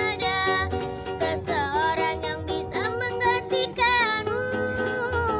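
Children singing a song in a high voice to a strummed small string instrument.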